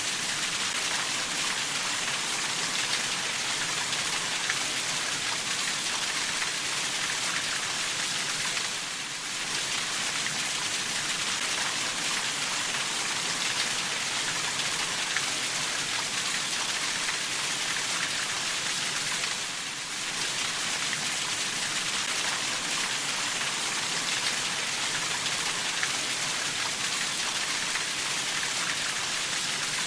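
Steady rainfall: a dense, even hiss of rain with scattered fine drop ticks, going briefly softer twice.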